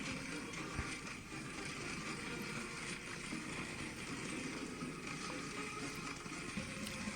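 Industrial shredder grinding up a motorcycle: a faint, steady mechanical grinding noise with a few small clicks and cracks scattered through it.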